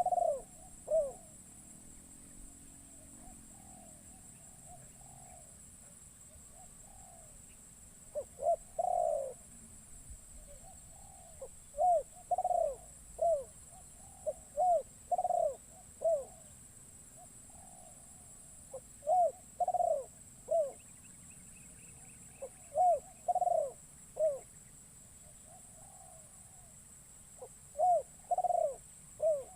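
Spotted dove (terkukur) cooing: short phrases of several throaty coo notes, repeated every few seconds. This is the caged decoy calling to lure wild doves.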